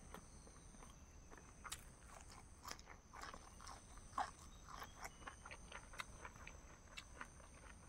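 Close-up chewing and mouth sounds of someone eating: soft, irregular clicks and smacks, a little louder about four seconds in.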